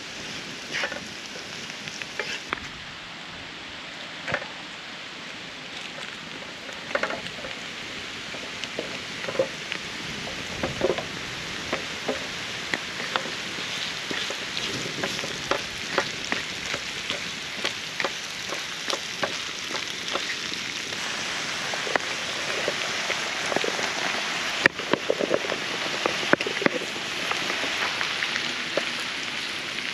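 Food frying in a pan, a steady sizzle that grows gradually louder, with scattered crackles and pops and occasional clatters, as of stirring.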